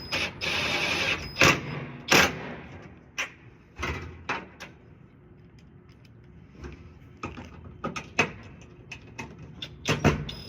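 Impact driver running in a short burst, driving hardware lightly into an ABS plastic side panel. Sharp knocks follow, then scattered quieter clicks and taps of hardware being handled, with louder clicks near the end.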